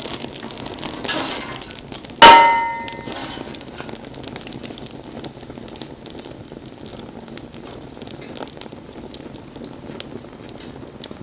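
Wood fire crackling and popping steadily. About two seconds in, a single loud metallic clang that rings briefly and dies away.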